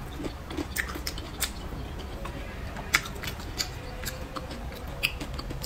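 Close-miked eating sounds of a person chewing a mouthful of stir-fried pork: wet mouth clicks and smacks at irregular intervals, one sharper click about three seconds in.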